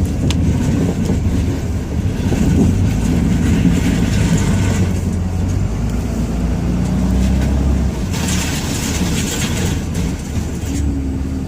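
Ram 2500's Cummins inline-six turbodiesel engine running under load as the truck plows, heard from inside the cab, its pitch drifting with the throttle. A hiss swells over it twice, a couple of seconds in and again about eight seconds in.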